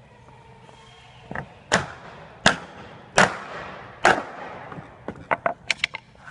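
Repeated hard knocks: five strong blows, each with a short ringing tail, then a quicker run of lighter knocks near the end.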